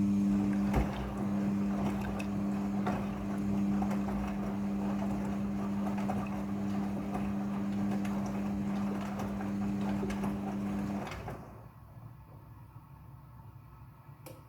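Midea front-loading washing machine running mid-cycle: a steady motor hum over the rush of water and scattered clicks. The hum stops suddenly about 11 seconds in.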